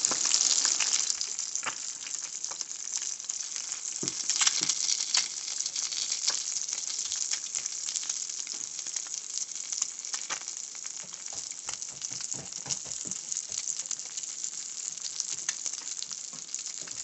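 Two eggs and two turkey sausage patties frying in a nonstick pan, sizzling steadily in the hot fat with frequent crackling pops. The sizzle eases off slightly toward the end.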